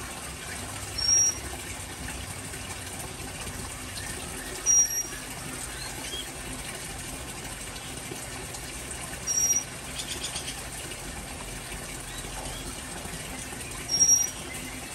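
A bird gives a short, high, single-pitched call four times, about every four to five seconds, over a steady watery hiss of rain.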